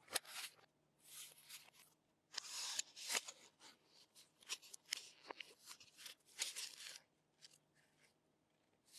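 Packaging being handled: irregular bursts of rustling and crinkling, with a few small clicks.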